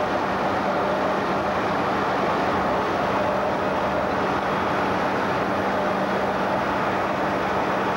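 Steady aircraft cabin noise: an even, unbroken rush with a constant low hum.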